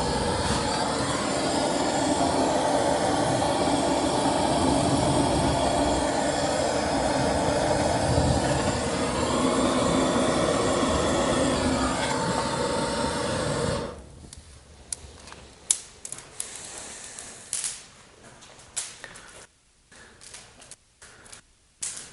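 A loud steady rushing noise for the first two-thirds, which cuts off suddenly. Then a wood fire in an open brick fireplace crackles quietly, with scattered sharp pops.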